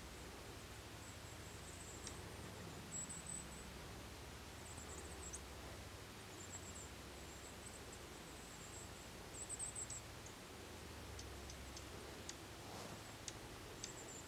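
Faint, very high-pitched chirps and short trills of small songbirds calling on and off, over a low steady rumble.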